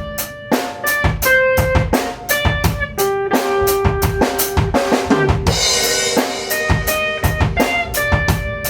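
Drum kit playing a steady rhythm of kick and snare hits over held melodic notes, with a cymbal crash about five and a half seconds in.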